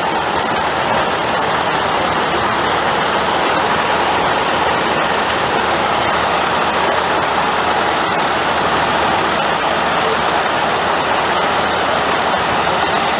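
Antique tractor engines running steadily, a loud, even mechanical din.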